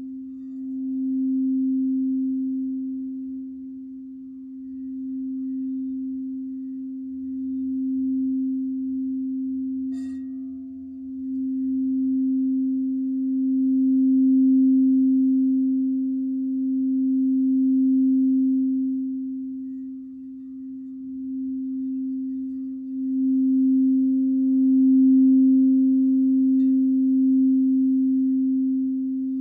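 Singing bowl sung continuously around the rim: one steady low tone that swells and eases every few seconds, with a faint click about ten seconds in.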